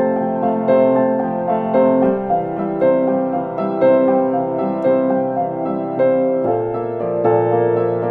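Solo piano music playing slow, calm repeated chords about once a second, with a lower bass note coming in about six and a half seconds in.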